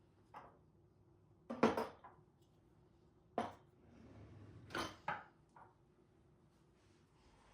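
Kitchenware being handled and set down: a series of short clinks and knocks, about half a dozen, the loudest a double knock a little under two seconds in.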